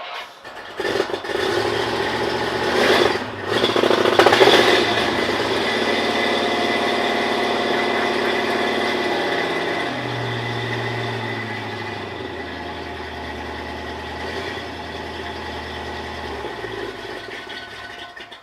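An engine running steadily, louder with a noisy surge in the first few seconds, then settling lower with its tone shifting in steps after about ten seconds.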